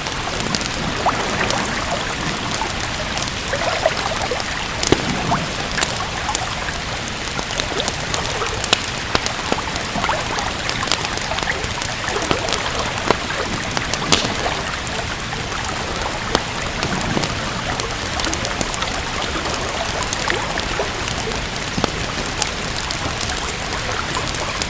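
Steady rain falling, an even hiss, with scattered sharp pops and crackles from a wood fire.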